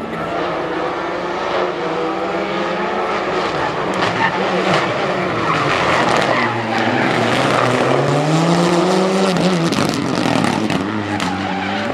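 Rally car engine at full throttle on a special stage, its pitch repeatedly climbing and dropping with gear changes and lifts, with a long rising rev in the second half that breaks off sharply.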